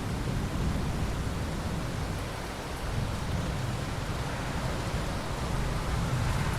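Steady rain with a low rumble of thunder underneath, the rumble easing briefly about two and a half seconds in.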